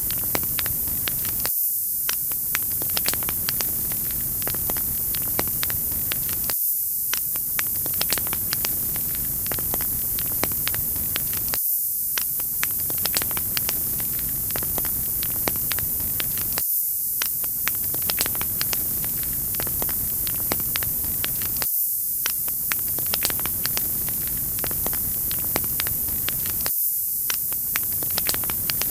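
Crackling wood fire: a steady hiss with frequent small pops and snaps, the same short stretch repeating about every five seconds.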